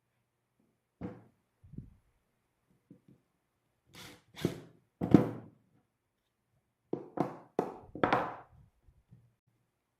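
Irregular wooden thunks and knocks from cedar bench parts being worked, about a dozen separate strikes in bunches, the loudest about halfway through.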